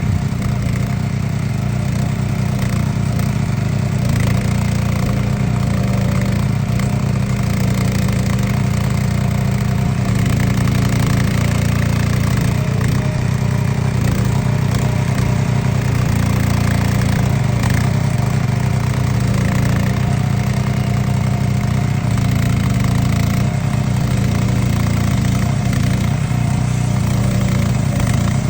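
Small petrol engine of a walk-behind Baumech trencher running steadily at an even, unchanging level.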